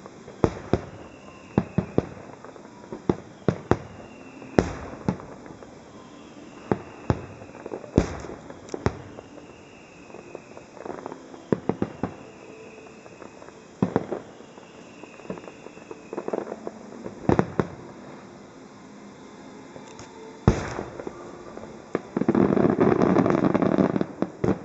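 Aerial fireworks shells bursting in an irregular string of sharp bangs, some single and some in quick clusters. Near the end comes a dense, continuous stretch of loud noise lasting a couple of seconds.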